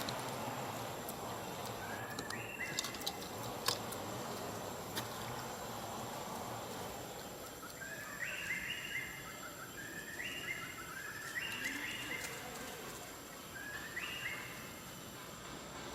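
Outdoor background noise with a series of short chirping calls, each a few quick notes stepping upward in pitch, repeated every second or two, and a few sharp clicks.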